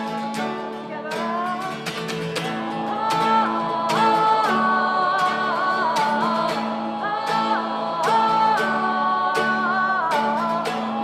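Wordless held vocal parts sung over strummed acoustic guitar: two voice lines hold notes and glide from one note to the next, over a steady low guitar note.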